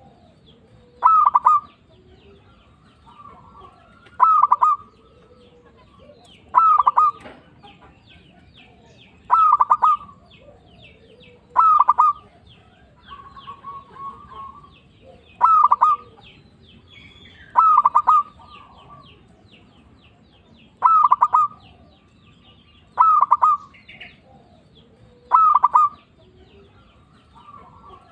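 Local zebra dove (perkutut) singing, a short phrase of a few quick coos repeated about every two to three seconds, around ten times. Faint high chirps sound in the background.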